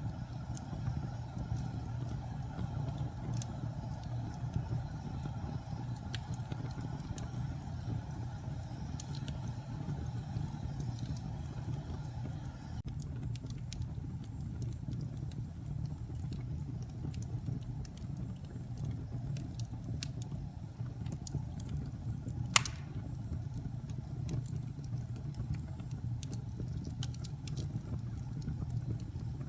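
Wood fire burning in a fireplace: a steady low roar with scattered small crackles and one loud sharp pop well past the middle.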